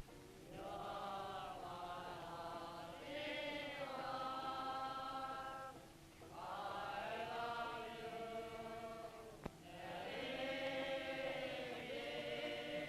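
A group of British soldiers singing together unaccompanied, holding long notes in phrases with short pauses for breath about 6 and 10 seconds in. A single click sounds just before the second pause.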